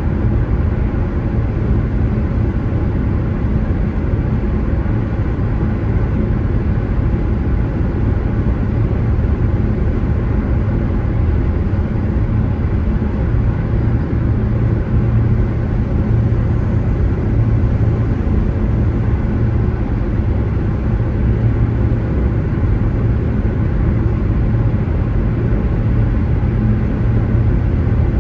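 Car driving along at a steady pace: a constant low drone of road and engine noise with an even hum and no sudden events.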